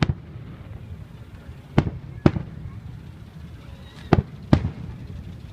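Aerial fireworks shells bursting: five sharp bangs, one right at the start and then two pairs, each pair about half a second apart.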